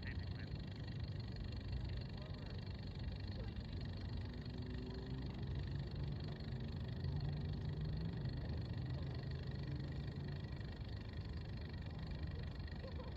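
An engine running steadily under a low rumble, its pitch shifting a little in the middle.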